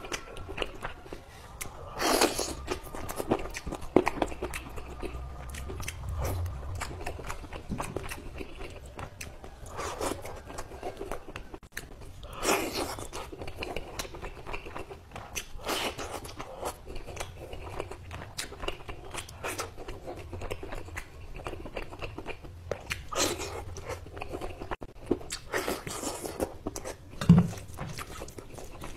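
Close-up eating sounds of chicken curry and rice eaten by hand: biting and chewing with wet mouth noises and a steady run of small clicks, louder bites every few seconds. A single low thud near the end.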